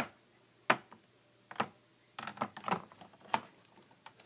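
A string of sharp, hard taps and clicks at irregular intervals, with a quicker cluster past the middle: small toy figures being hopped or moved along a hard surface, like a pony figure made to walk upstairs.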